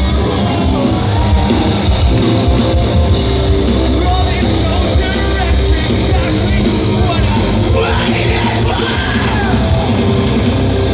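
Live hardcore/metal band playing loud, heavy distorted music with a yelled vocal, captured by an audience recording.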